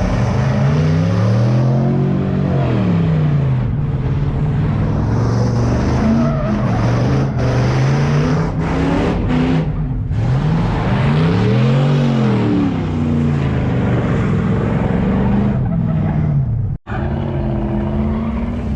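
Car engine revving hard, its pitch repeatedly climbing and falling, over the hiss and squeal of spinning tyres in a burnout or donuts. The sound cuts out for an instant near the end.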